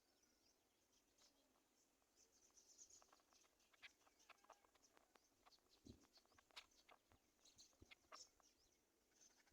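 Near silence with faint scattered clicks and brief high bird chirps, busiest in the middle.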